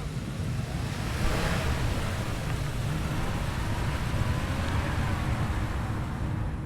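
Onboard riding noise from a Ducati Multistrada V4 S on the move: steady wind rush on the microphone, heaviest in the low end, with the V4 engine running faintly underneath.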